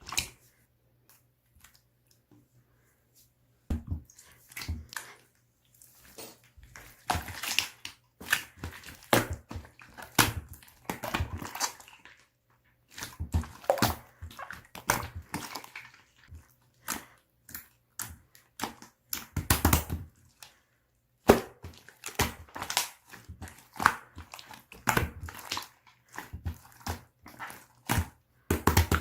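Hands squishing, pressing and stretching slime, making quick runs of wet clicks and crackles in irregular clusters with a couple of short pauses.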